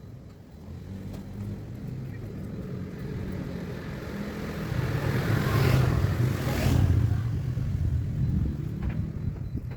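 Car engine running, swelling in loudness to a peak about five to seven seconds in and then easing back.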